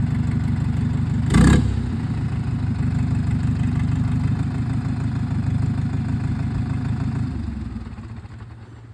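Fendt tractor's diesel engine running steadily, with one short, sharp noise about a second and a half in; from about seven seconds in the engine sound dies away.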